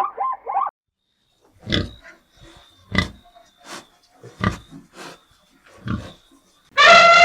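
Pig grunting: about six short, separate grunts spread over a few seconds. The tail of rapid high chirps ends just before the grunts, and a loud, long pitched call begins near the end.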